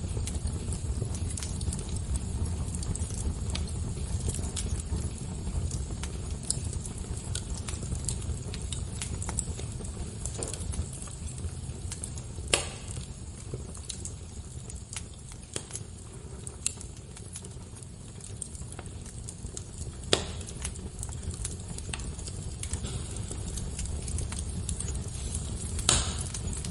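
Fire crackling: scattered small crackles over a steady low rumble, with three louder pops, about halfway through, about three-quarters through and near the end.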